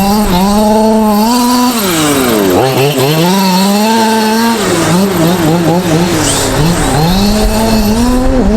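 Small two-stroke engine of a gas-powered fifth-scale RC truck, revving up and down over and over, with a quick run of short throttle blips around the middle.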